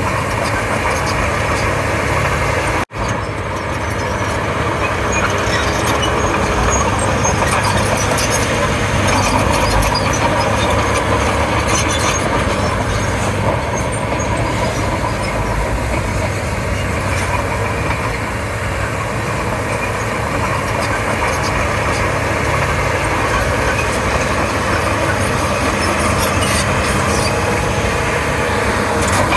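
Komatsu D31P bulldozer's diesel engine running steadily as it works, with scattered clanks over the engine noise. The sound cuts out briefly about three seconds in.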